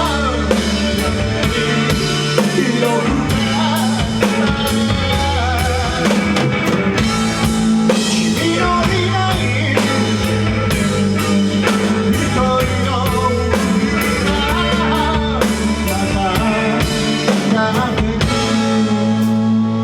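Rock band playing live: a steady drum-kit beat with bass and guitar.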